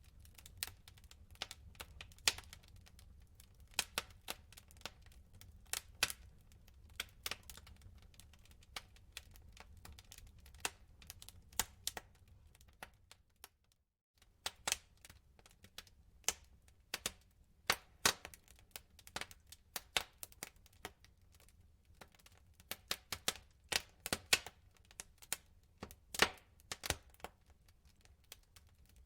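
Wood fire in a fireplace crackling, with irregular sharp pops and snaps from the burning logs over a low steady rumble of the flames. The sound cuts out for under a second about halfway, then the crackling resumes.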